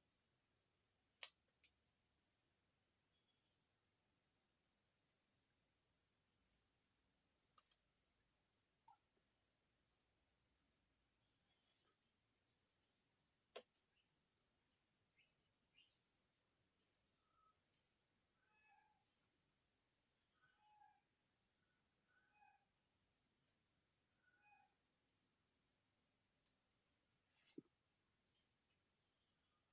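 A steady, high-pitched chorus of insects, crickets or similar, with a few faint clicks. Partway through there is a short series of brief calls from a bird.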